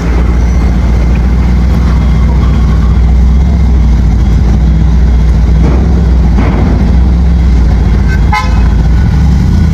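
Loud motor vehicle running steadily, with a short horn toot about eight seconds in.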